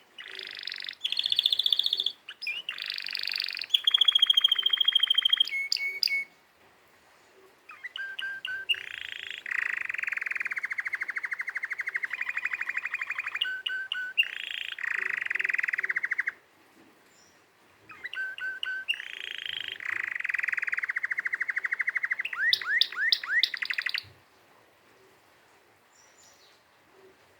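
Domestic canary singing three long song phrases made of fast trills and rapidly repeated notes, with short pauses between phrases. The song stops a few seconds before the end.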